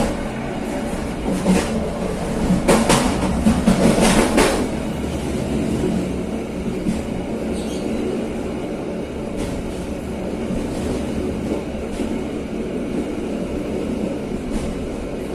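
KA Serayu passenger train running along the track, with a steady rumble of wheels on rails. A quick run of sharp clacks comes about three to four seconds in, and fainter clicks recur later.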